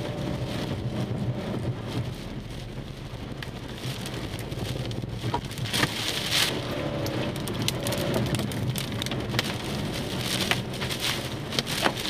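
Heavy wind-driven rain from a tornado pelting a car, heard from inside the cabin over a steady low rumble, with a few sharp knocks in the second half.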